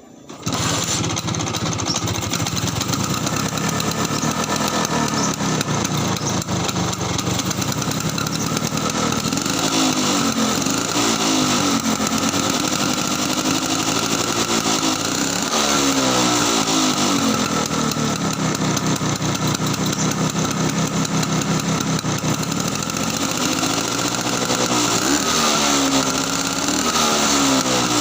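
Vespa PX two-stroke single-cylinder engine running through its stock exhaust. It starts up suddenly just after the beginning, idles, and is revved several times, the pitch rising and falling with each blip.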